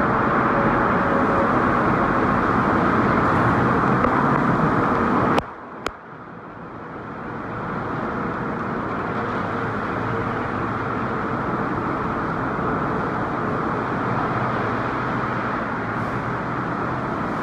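Car wash tunnel machinery running with a steady rushing noise. The noise cuts out abruptly about five seconds in, a short click follows, and it builds back up over the next couple of seconds.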